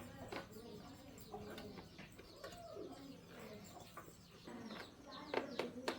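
Faint bird calls, with a dove cooing in low, curving notes. A few sharp taps or clicks near the end.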